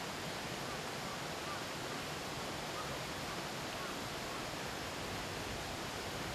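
A mountain stream babbling over rocks: steady, even rushing water with no break.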